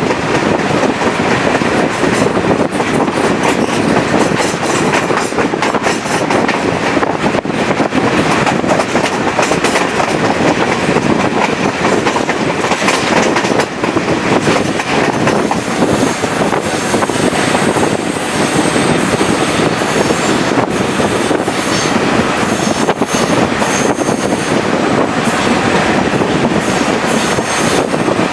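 Chepe diesel-hauled passenger train running along the track, a steady loud rush of wheels on rail with scattered clicks from the rail joints. High thin wheel squeal comes and goes through the second half.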